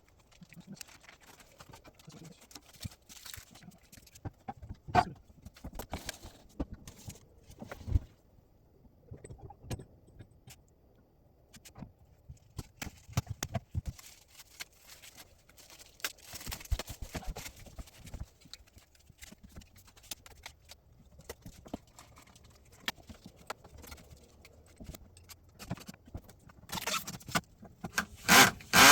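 Scattered clicks, taps and knocks of a handle being fitted to a fridge-freezer door, with a louder burst of knocks near the end.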